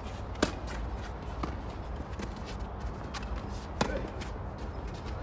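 Tennis rally: balls struck by rackets and bouncing on the court, a series of sharp pops, the two loudest about three seconds apart, with fainter ones between, over a steady low rumble.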